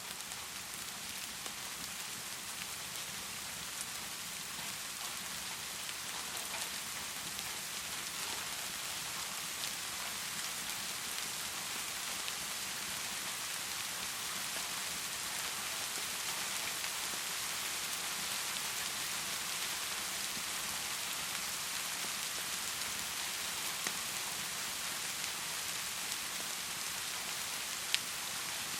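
Heavy rain pouring in a steady, even hiss that swells slightly over the first several seconds, with a couple of sharp ticks near the end.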